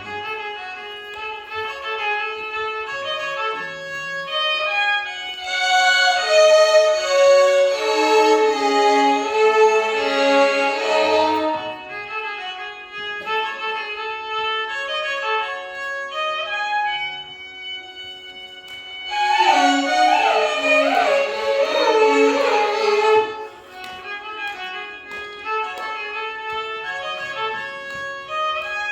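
Violin orchestra playing a Carnatic melody in unison over a steady drone note. It swells into two louder, fuller passages, one about six seconds in and one about nineteen seconds in, with softer playing between.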